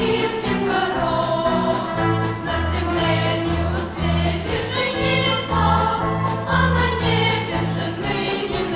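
Estrada-symphonic orchestra of school students playing, with a melody above a bass line on a steady beat.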